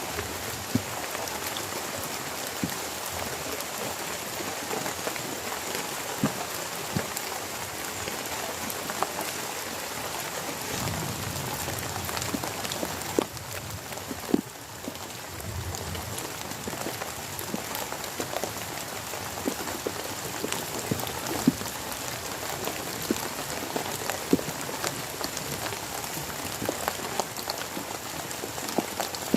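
Heavy rain falling steadily, with many sharp individual drops ticking on nearby surfaces. Two brief low rumbles come near the middle.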